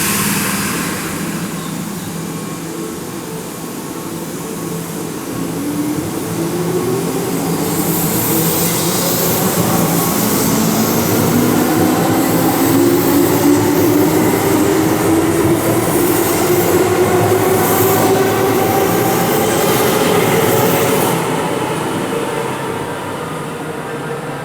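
Keihan electric train pulling away from the platform: its traction motors whine, rising steadily in pitch as it speeds up, and its wheels click over the rail joints. The sound fades near the end.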